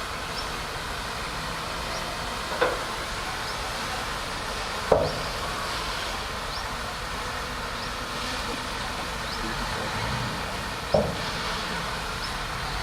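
Bulldozer engine running steadily, with three sharp metallic clanks spaced a few seconds apart.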